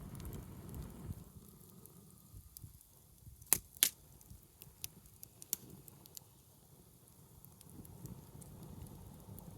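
Wood campfire crackling, with scattered sharp pops; the two loudest come close together about three and a half seconds in. A low rushing of the burning fire is heard at the start, fades in the middle and comes back near the end.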